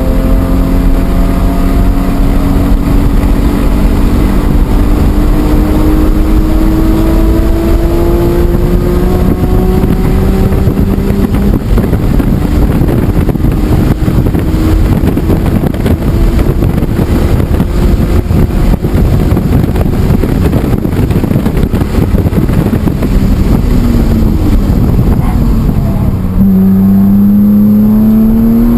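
BMW E46 M3's S54 inline-six under hard acceleration on track, its pitch climbing slowly through a long pull, over heavy wind and road noise. Near the end the revs drop briefly, then climb again strongly from lower.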